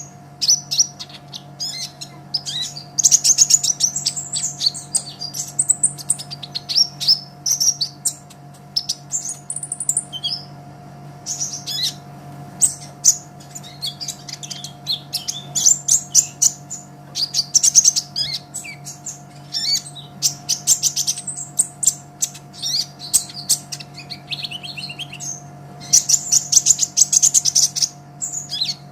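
Kolibri ninja (purple-throated sunbird) singing a rapid, high-pitched twittering song of chirps and trills in runs of a few seconds with short pauses. A steady low hum runs underneath.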